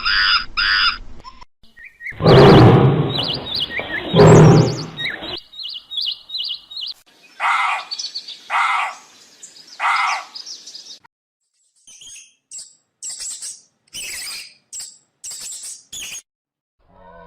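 A run of short animal-call clips, chiefly birds chirping. It starts with a loud, harsh call lasting about three seconds. Then come quick high chirps, three separate calls about a second apart, and several thin, high chirps near the end.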